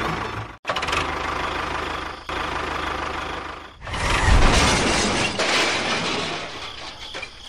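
A small machine running with a noisy, rattling sound. It is broken by abrupt cuts about half a second, two seconds and nearly four seconds in, and is louder after the last cut.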